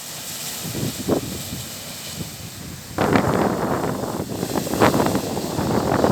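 Strong wind buffeting the microphone in irregular gusts, getting louder and rougher about halfway through.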